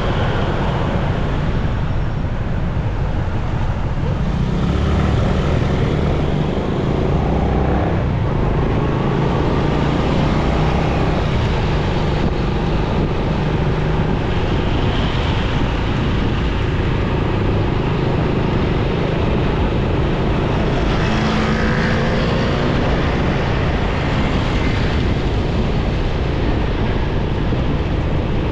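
Motorcycle riding in city traffic: a steady rumble of the bike's engine and wind, with the engines of other vehicles rising and fading as they pass.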